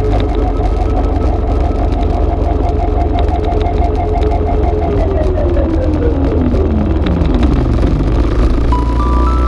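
Dirt bike engine running at steady revs, then its pitch falls smoothly over about three seconds as it slows, over a heavy low rumble.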